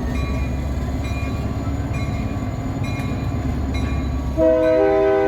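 EMD F40PHM-2 diesel locomotive running with a steady low rumble, heard from the coach right behind it, with a ring repeating about once a second. About four seconds in, its air horn starts blowing a chord of several notes and is the loudest sound.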